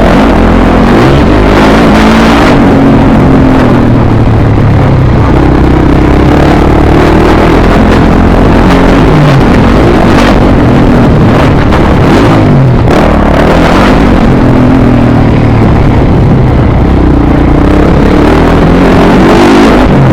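Dirt bike engine being ridden hard, its pitch climbing and dropping again and again as the throttle is opened and shut.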